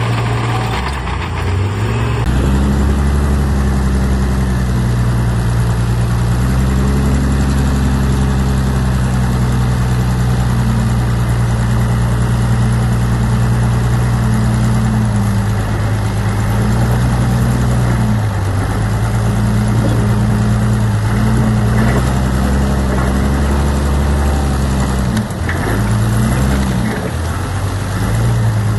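Heavy diesel engine of an earthmoving machine running loudly and steadily, its engine speed dipping and picking back up several times as it works.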